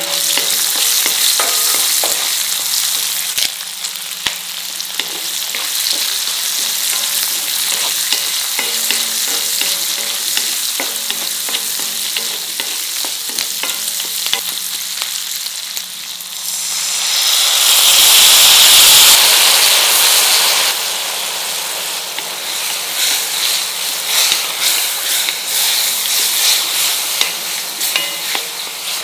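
Sliced shallots with dried red chillies and curry leaves sizzling in hot oil in a kadai, stirred with a spatula that scrapes and clicks against the pan. The sizzle swells louder for about four seconds past the middle, then settles back.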